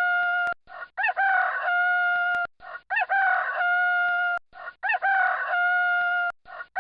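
Rooster crowing cock-a-doodle-doo over and over, the same crow repeating about every two seconds, each one ending on a long held note.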